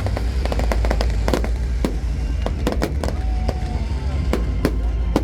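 Fireworks bursting in a rapid, irregular run of sharp bangs and crackles over a steady low rumble.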